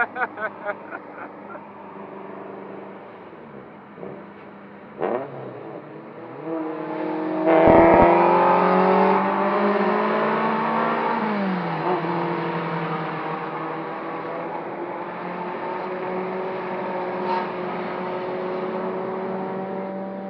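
Turbocharged Toyota Corolla Altis engine heard from inside the car, accelerating hard: the revs climb loudly about seven or eight seconds in. The automatic transmission upshifts, dropping the pitch, around eleven seconds, then the engine pulls on with revs slowly rising. A quick run of sharp pulses comes at the very start.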